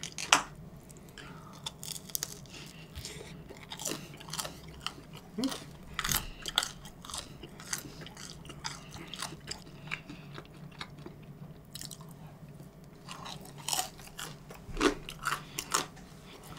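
Close-miked chewing of crisp, well-baked Chicago pizza crust with strawberry jam: irregular crunches and wet mouth clicks.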